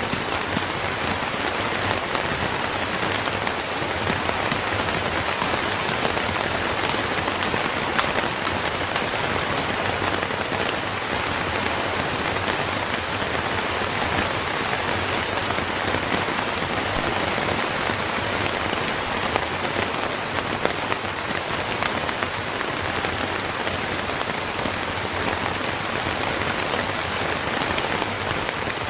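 Steady rain falling, with a scatter of sharp ticks during the first several seconds.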